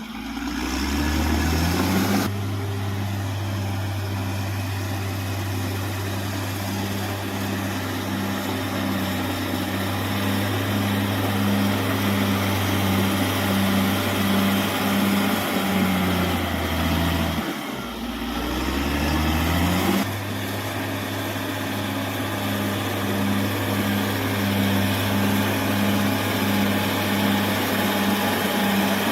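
Caterpillar D6R XL bulldozer's diesel engine running steadily under load. Its pitch sags and climbs back up twice, right at the start and about two-thirds of the way through.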